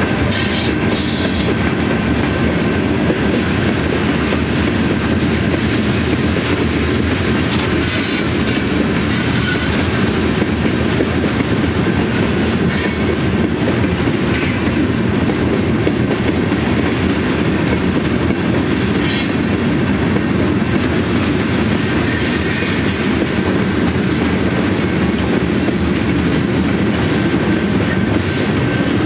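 BNSF manifest freight train's covered hopper cars rolling steadily past with a continuous rumble and clatter of wheels on the rails. Brief high-pitched wheel squeals break through every few seconds.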